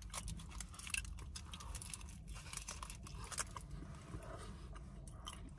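A man chewing a mouthful of burrito with his mouth closed: faint, irregular little clicks and crackles.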